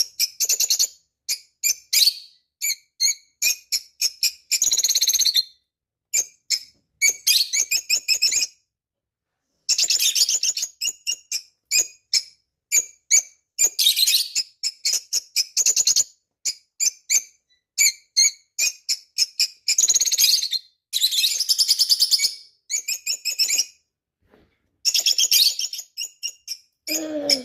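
Pet parrot chirping and chattering in rapid runs of short, high squeaks and tweets, with a brief pause about nine seconds in.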